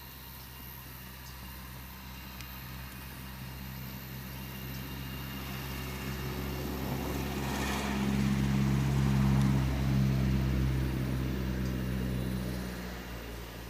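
Engine drone of a passing vehicle: a low, steady hum that grows louder, is loudest a little past the middle, then fades away near the end.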